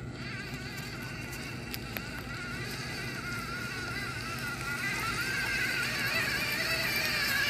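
Electric motors of a Huina radio-controlled excavator whining, the pitch wavering up and down as the controls are worked, growing louder over the last few seconds.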